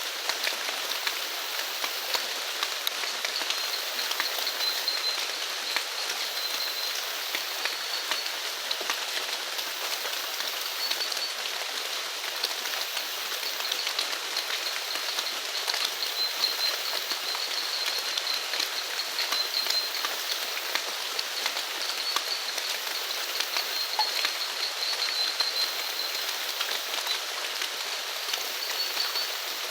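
Steady rain falling, a dense patter of drops over a constant hiss. A faint high trilling call comes and goes above it.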